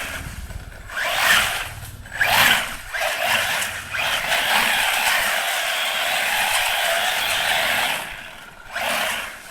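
UdiRC UD1002P 1/10 scale brushless RC desert truck driven in throttle bursts, its tyres scrabbling and scraping over the ground: several short surges, then a steady run of about four seconds in the middle, and another surge near the end.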